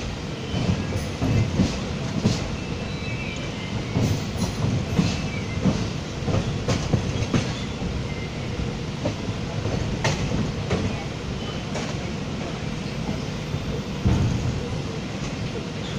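A passenger train running, heard from on board: a steady low rumble broken by irregular clicks and knocks as the wheels run over rail joints (clickety-clack).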